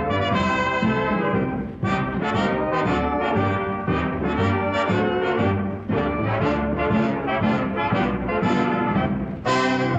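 Brass-led music, a run of quick, clearly separated notes with brief breaks between phrases.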